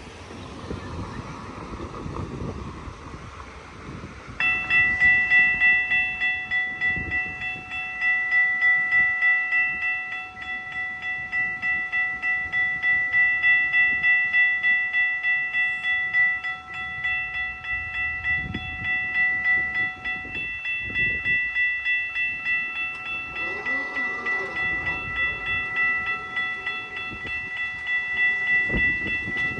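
The horn on GO Transit cab car 251, a really powerful multi-note air horn, sounding one long chord that starts suddenly about four seconds in and holds, with its lowest note dropping out in the second half. Under it runs the rumble of the passing commuter train on the rails.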